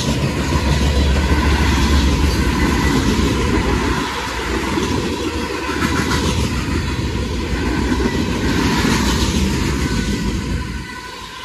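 Freight cars of a passing freight train rolling by at close range, their steel wheels running steadily on the rails. The sound drops away in the last second.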